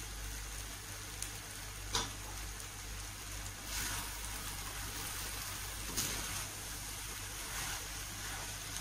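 Fried noodles sizzling softly in a wok as raw eggs are stirred in, with a plastic spatula scraping and knocking against the pan a few times, sharpest about two seconds in and again about six seconds in. A steady low hum lies underneath.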